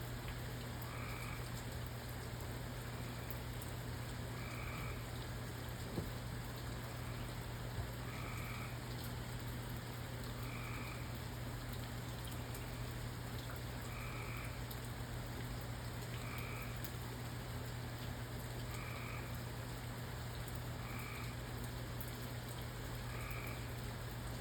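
A frog croaking, one short call every two to three seconds, over the steady hiss of light rain, with a low steady hum underneath.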